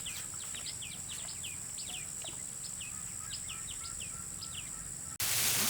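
Birds calling with many short, quick chirps that sweep downward, over a steady high-pitched insect drone. About five seconds in, this cuts off abruptly to a louder, noisier sound.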